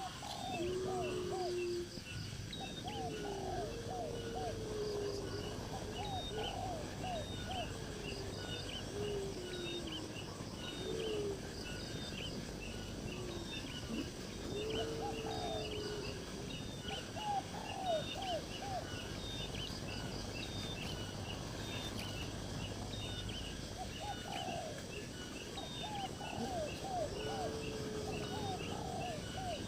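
Birds calling: groups of short curved notes and a few longer, sliding calls, over a continuous fast high-pitched chirping.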